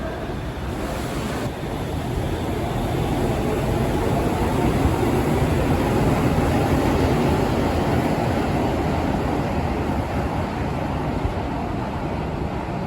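Shonan Monorail 5000-series suspended monorail train running past, its running noise swelling to a peak around the middle and easing off toward the end.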